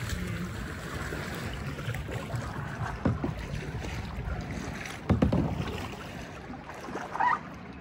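Kayak paddling: paddle strokes splashing in the water around the kayak, one about three seconds in and a stronger one about five seconds in, over a steady rush of wind on the microphone.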